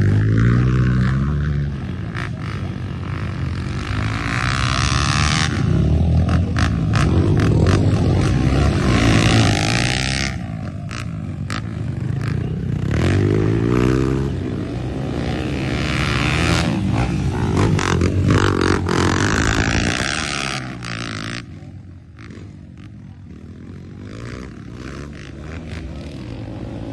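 Off-road motorcycle engine revving up and falling back again and again as it is ridden over rough trail, with scraping and clattering from tyres and machine on the ground. It quietens somewhat for the last several seconds.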